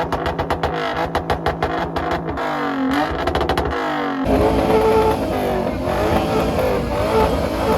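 Car engines revving. A fast pulsing and a rising pitch give way suddenly, about four seconds in, to a louder engine sound whose pitch wavers up and down.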